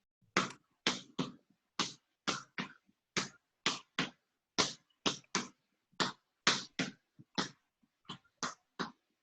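A basketball being dribbled hard in a pound, in-and-out and crossover drill: sharp bounces about two to three a second in an uneven, repeating rhythm.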